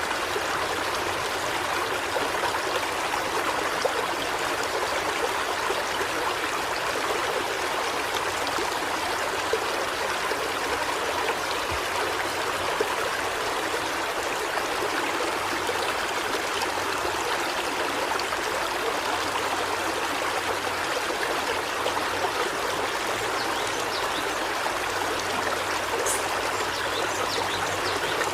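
Steady rushing of running water, like a stream flowing.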